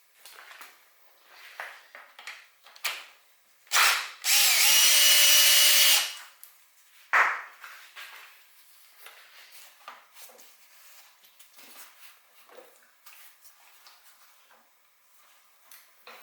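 Cordless drill/driver running steadily for about two seconds to spin out a bolt, with short trigger blips just before and after. Light clicks and handling noises of tools and parts fill the rest.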